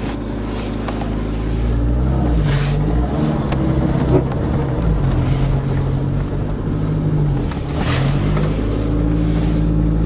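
A car engine running and revved up and down several times. It cuts off abruptly at the very end.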